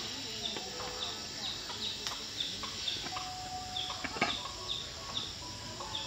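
Outdoor ambience of small birds chirping, short falling chirps repeated about twice a second, with a couple of sharp knocks about two and four seconds in.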